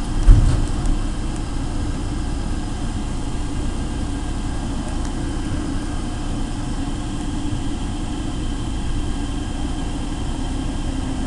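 Denver airport underground people-mover train running through its tunnel, heard from inside the car as a steady low rumble. One thump sounds right near the start.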